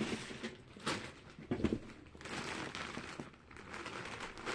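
Rustling and handling noises while searching through belongings for a plastic bag of papers, with a few light clicks and a soft knock about one and a half seconds in.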